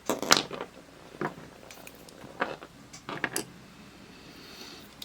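Scattered light clicks and clinks of small plastic and metal parts being handled, as the opened multimeter and its selector parts are picked up and set down, with a few taps close together near the start and again around three seconds in.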